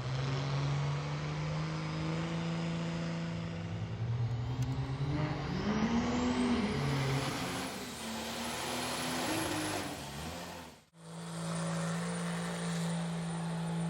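Truck engines running. The pitch rises and falls once, about five to seven seconds in, as one revs. A sudden cut about eleven seconds in is followed by an engine running steadily.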